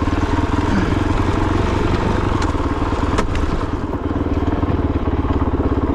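Kove 450 Rally's single-cylinder 450 cc engine running steadily as the bike is ridden over rocky single track, with a sharp knock about three seconds in.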